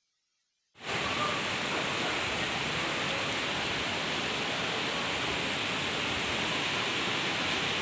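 Heavy rain pouring down, heard from under a covered station concourse as a loud, steady hiss. It cuts in abruptly about a second in, after a moment of dead silence.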